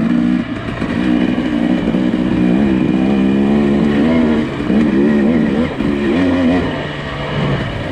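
Nissan Pathfinder engine running under varying throttle, its pitch rising and falling repeatedly as it works along an off-road trail.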